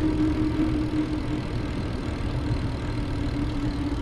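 Riding a bicycle along a paved road: rough low wind rumble on the microphone with a steady hum throughout.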